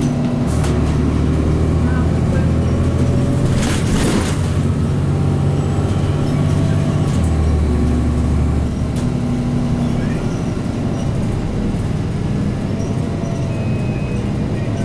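Cummins ISC inline-six diesel of a 2002 Blue Bird CS transit bus running under way, its steady low drone shifting in pitch a few times. A brief loud burst of noise comes about four seconds in.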